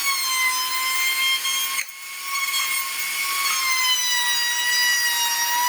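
Router motor spinning at high speed on a CNC router: a steady high-pitched whine that drops out briefly about two seconds in, then sags slightly in pitch near the end.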